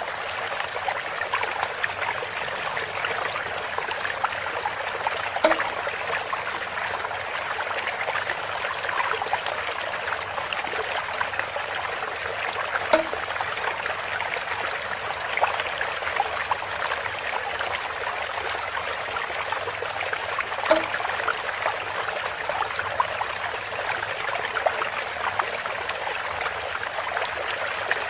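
Water trickling steadily through a bamboo spout, with a brief louder plop about every seven to eight seconds.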